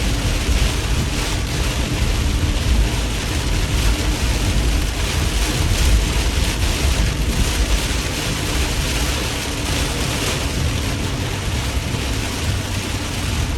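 Heavy rain on a car driving down a wet highway, heard from inside the cabin: a steady, dense rush of rain and tyre spray over a low road rumble.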